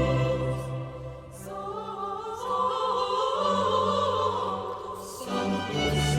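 A choir singing with an orchestra in long held chords. The music thins about a second in, builds again, and eases briefly near the end before the full ensemble comes back in.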